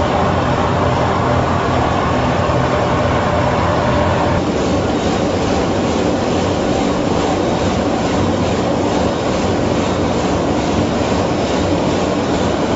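Vegetable washing machine running with a load of potatoes: a steady, loud mechanical rumble and clatter. About four seconds in, the higher part of the noise drops away and a faint, regular ticking rhythm comes through.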